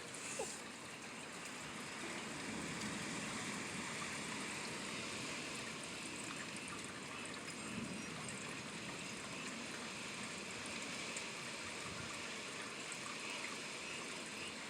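Rain falling steadily, an even hiss of rainfall from an incoming thunderstorm.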